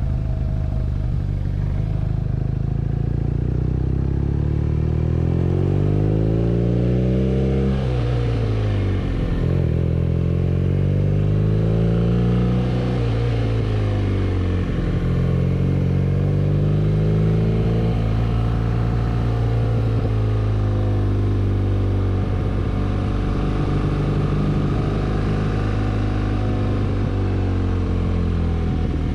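BMW R nineT's 1170 cc boxer twin engine pulling as the motorcycle is ridden. Its note rises under acceleration and drops sharply twice, then runs more steadily with smaller rises and falls.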